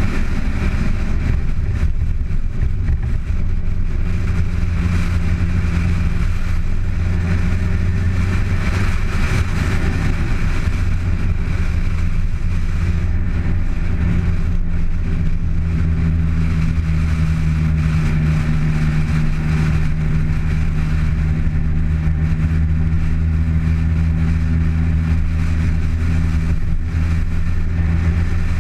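Car engine running steadily while driving, with a constant drone and road noise; the engine note shifts slightly a little past halfway through.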